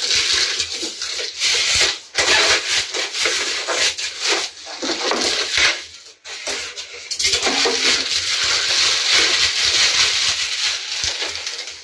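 Packaging being handled during unboxing: loud rustling and crinkling with short clatters, pausing briefly about two seconds in and again around six seconds in.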